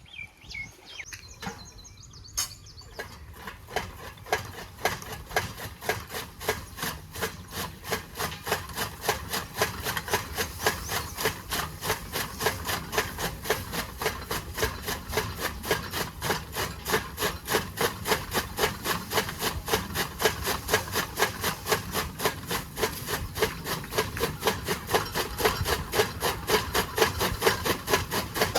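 Tokka (fodder chaff-cutter) machine running with a regular clattering beat that gradually speeds up and grows louder.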